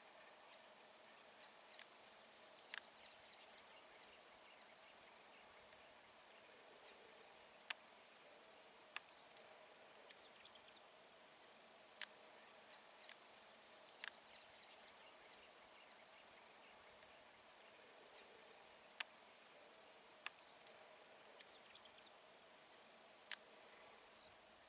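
A steady, high-pitched trill of insects, like crickets or cicadas, with about eight short, sharp chip notes scattered through it.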